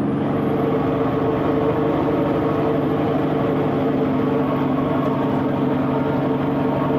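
Kenworth C500 truck's Cummins diesel engine running steadily under way, a constant drone with a thin high whine over it.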